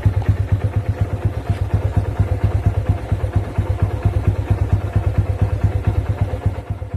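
Small single-cylinder motorcycle engine, a Honda CB110, running steadily with a fast, even pulse of exhaust beats.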